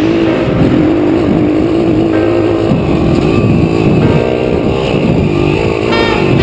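YCF 150cc Classic Pilot dirt bike's single-cylinder four-stroke engine revving up and down repeatedly as it is ridden.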